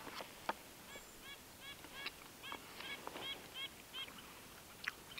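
A bird calling faintly from about a second in: a quick series of about nine short, arched, nasal-sounding notes, roughly three a second. Faint clicks and rustles of spoon and food pouch are scattered around it.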